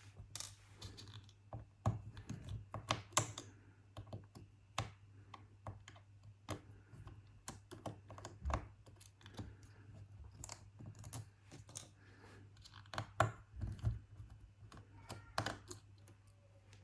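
Small, irregular clicks and taps of a precision screwdriver and tiny screws being worked out of a laptop's internal speaker mount, over a faint steady low hum.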